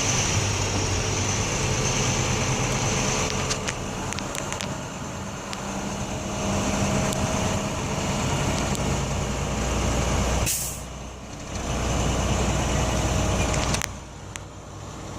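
International 4300 box truck's diesel engine running at low speed, with a few sharp clicks around four seconds in. A short hiss comes about ten seconds in, and the sound drops quieter for a moment after it.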